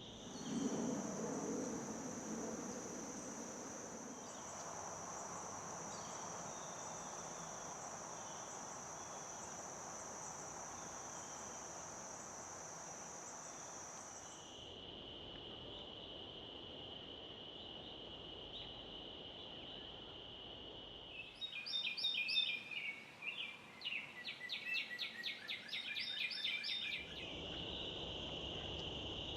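Insects trilling steadily in one unbroken high tone, which drops to a lower steady trill about halfway through; a low rumble sounds in the first few seconds. About two-thirds of the way in, a bird calls in rapid, repeated chirping notes for about five seconds.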